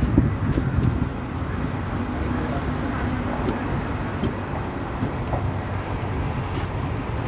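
Passenger train running along the track: a steady rumble from the wheels and rails, a little louder in the first second, then even.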